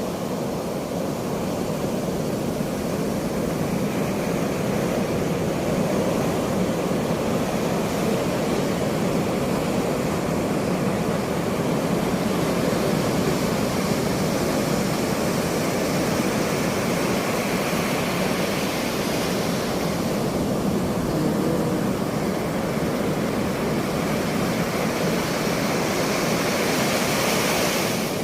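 Ocean surf: a steady wash of breaking waves that swells and eases gently over several seconds.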